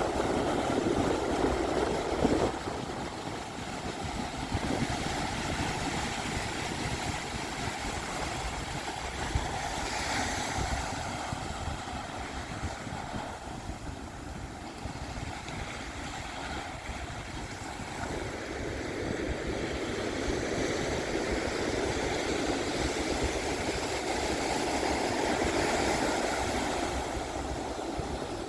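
Pacific Ocean surf breaking and washing up a beach: a steady rushing that swells loudest in the first couple of seconds and again over the last ten, with wind rumbling on the microphone.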